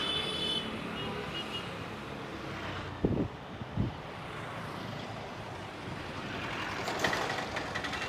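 Steady road-traffic noise, with two dull thumps about three seconds in and a brief high beep near the end.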